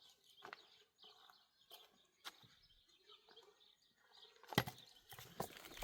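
Faint small clicks and rustles with weak bird chirps, then about four and a half seconds in, two louder sharp knocks like an axe striking wood.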